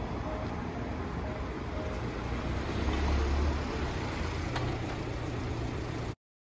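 Alfa Romeo MiTo's engine running close by, with road noise; a low rumble swells about three seconds in. The sound cuts off abruptly just before the end.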